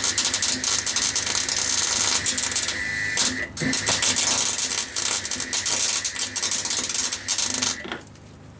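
Gas-shielded MIG welder arcing with a loud, continuous crackle while laying tack welds, with a brief break about three and a half seconds in and a stop near the end. A generator's steady low hum runs underneath.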